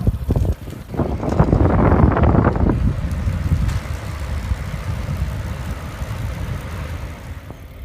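Wind rumbling on the microphone of a camera riding along on a bicycle. It swells into a heavy low gust about a second in, then settles to a steadier rush.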